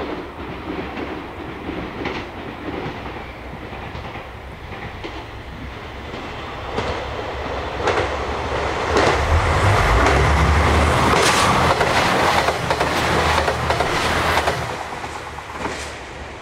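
A JR Shikoku 2000-series tilting diesel express train approaching and passing at speed. Its wheels click over the rail joints with a low engine rumble, growing louder from about seven seconds in, loudest for about five seconds, then fading away near the end.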